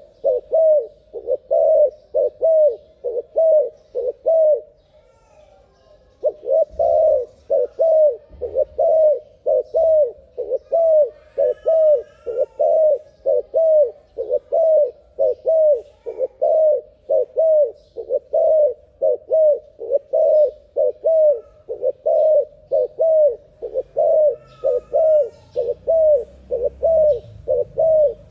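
Turtle dove (terkukur) cooing in a fast, unbroken run of short coos, about two a second, with one short pause about five seconds in. Faint chirps of another bird come in now and then.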